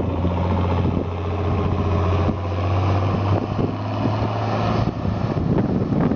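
Tractor engine running with a steady low hum.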